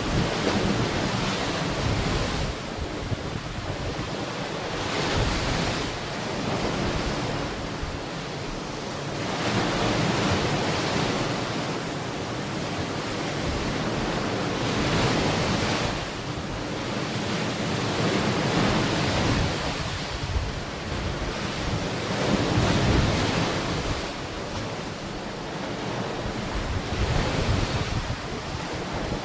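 Ocean waves breaking and washing onto a shore, the surf swelling and falling away every few seconds, with wind buffeting the microphone.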